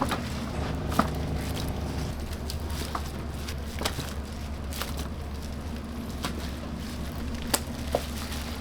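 Scattered sharp clicks and crackles over a steady low hum, as in kitchen work at a wood-fired roast chicken shop.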